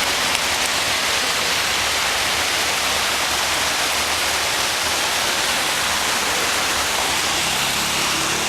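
Heavy rain pouring down, mixed with storm water rushing along a flooded street; a steady, loud wash of noise.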